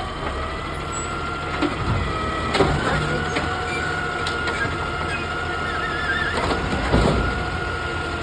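Autocar garbage truck running, its engine rumbling with a steady high whine over it, and a few short sharp clanks or hisses about two, two and a half, and seven seconds in.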